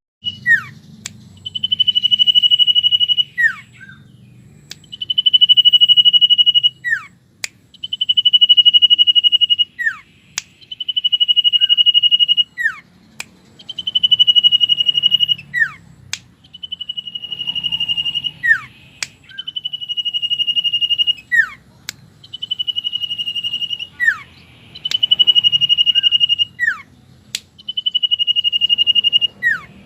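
Common iora song, repeated about a dozen times: a long, high, steady trill of a second or two, each ending in a quick downward-sliding whistle, with short sharp clicks between. It is the loud, gacor song used as a lure call to draw other birds.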